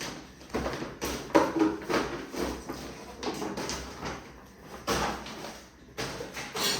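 Groceries being handled and unpacked: irregular rustling of packaging with light knocks as items are picked up and set down.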